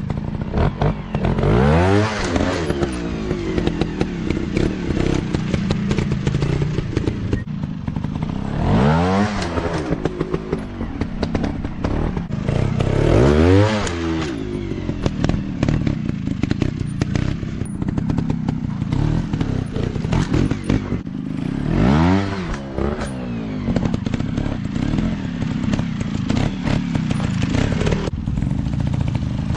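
Dirt bike engines revving in bursts over a steady engine drone, with loud rises and falls in pitch about two, nine, thirteen and twenty-two seconds in.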